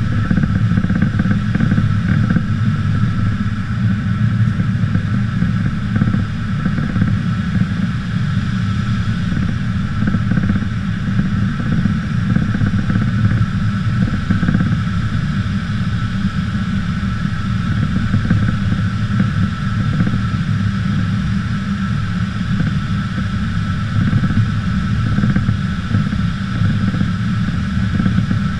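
Steady aircraft engine drone heard from inside the cabin, unbroken and even in level, with a low rumble and a constant higher tone.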